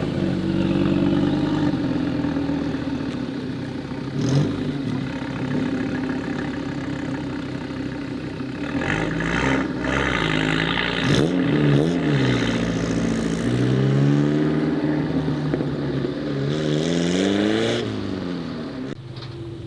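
Modified car engines revving and accelerating away, the engine pitch climbing and dropping several times, with a long steady climb in the last few seconds before the sound falls away. A sharp crack stands out about four seconds in.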